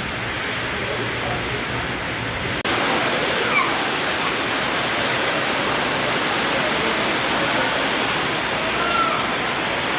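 Heavy rain pouring down in a steady rush, louder after an abrupt break about two and a half seconds in.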